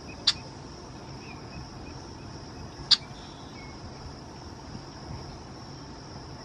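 Two short, sharp calls about two and a half seconds apart, typical of a red-winged blackbird's check call, over a steady high-pitched drone of crickets.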